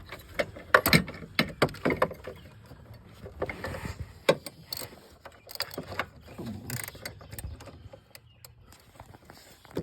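Irregular metal clicks and clinks of a 24 mm deep socket and wrench being fitted and worked onto a switch deep in the engine.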